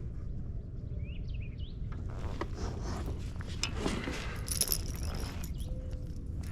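Wind rumbling on the microphone, with a few short bird chirps about a second in, then light rattling and clicking from about two seconds in.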